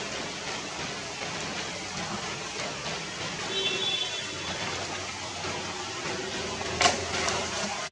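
Steady rain falling, a continuous hiss, with a brief high chirp about halfway through and a sharp click near the end.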